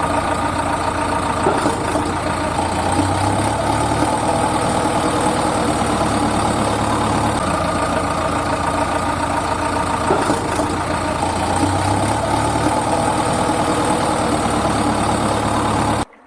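Engine idling sound effect, a steady heavy vehicle hum, with the same stretch repeating about every nine seconds as a loop. It cuts off suddenly near the end.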